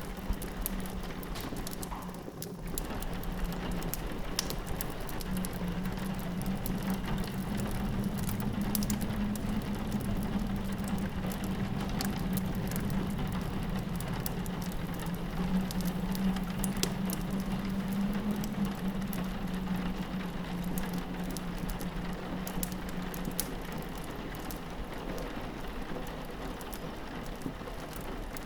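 Rain pattering on a window glass over a low, steady wind howl that swells and eases, with scattered small crackles from a fireplace. The whole mix dips briefly about two seconds in.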